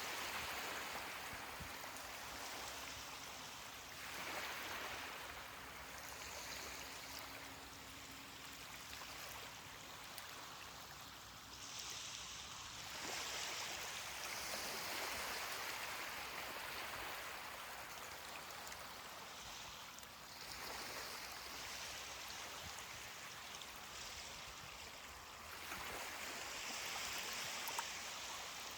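Ocean waves washing onto a beach, a steady hiss of water that swells and eases again about four times.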